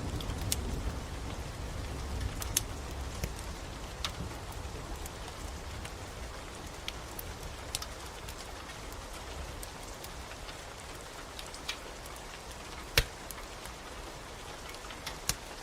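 Steady rain with scattered sharp crackles and pops from a wood fire, one louder pop about thirteen seconds in. A low rumble of thunder dies away in the first seconds.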